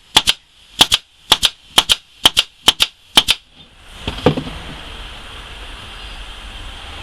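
A staple gun firing about seven times in quick succession, each shot a sharp double crack, as 1¼–1½-inch staples are driven into a wooden nuc box frame. A dull thump follows about four seconds in, then a steady hiss.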